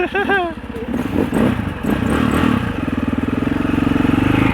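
Husaberg 650 four-stroke single-cylinder enduro dirt-bike engine running, picking up revs and growing louder and steadier over the last couple of seconds.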